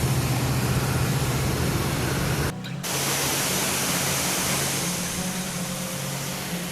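Steady rush of a waterfall, Horsetail Falls, with a low vehicle engine hum running underneath. The sound dips briefly about two and a half seconds in.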